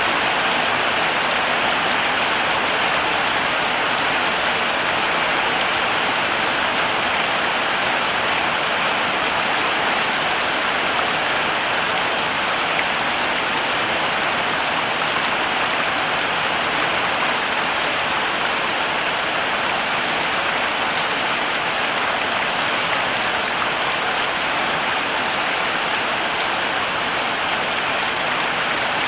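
Heavy rain falling steadily, an even hiss of many drops with no letup.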